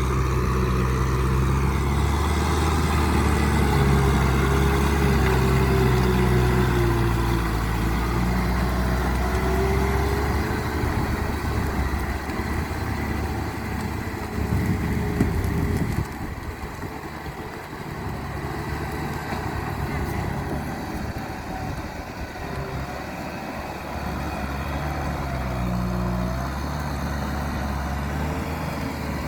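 Tractor engine running steadily while working a field. It is louder for the first half and drops in level about halfway through.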